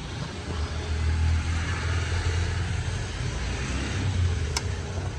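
Yamaha YZF-R6 inline-four engine running after a timing-chain repair and set-up, its sound swelling twice. There is a sharp click a little before the end.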